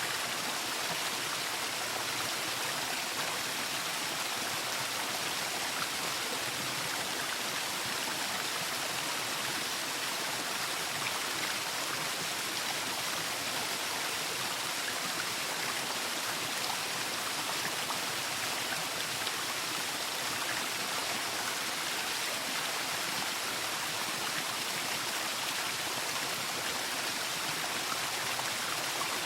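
Waterfall: falling water making a steady, even rush, mostly hiss with little low rumble.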